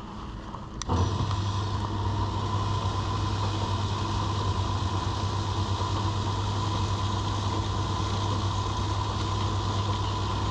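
A fuel bowser's pump motor switches on about a second in and runs steadily with a low hum and a thin whine while fuel is dispensed.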